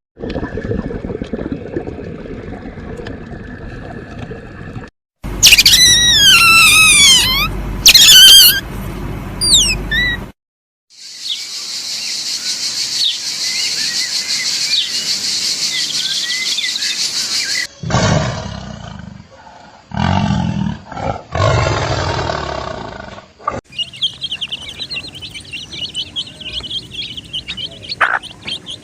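A string of separate animal recordings: loud bird calls made of repeated falling whistles, a steady high-pitched hiss of several seconds, a few short low-pitched calls, and rapid chirping near the end.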